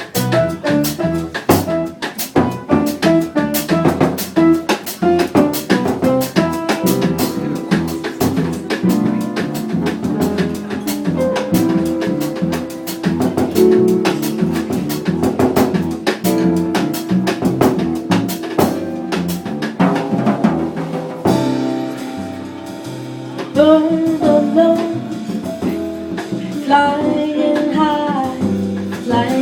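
Live Latin jazz band playing an instrumental introduction arranged as a changüí: a busy drum kit with rimshots over bass and melodic instruments. About two-thirds of the way through the drums stop and a sparser, quieter melodic passage follows.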